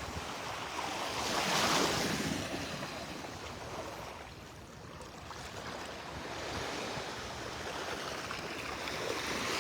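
Gentle Gulf of Mexico surf lapping at the shoreline, a soft wash that swells about two seconds in and ebbs again, with some wind on the microphone.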